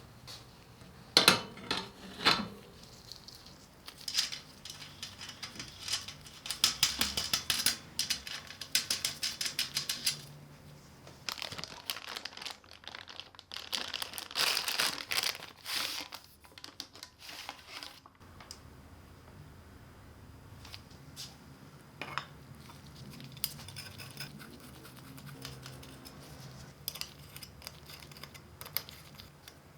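Crinkling and rustling, like plastic or paper wrapping being handled, in dense crackling runs, with a few sharp knocks near the start and scattered light ticks later.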